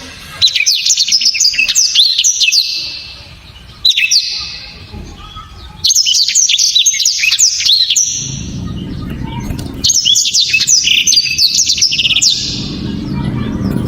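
Blackthroat (black-throated canary) singing loud, sharp bursts of rapid high twittering notes. There are four phrases of a second to a few seconds each, separated by short pauses.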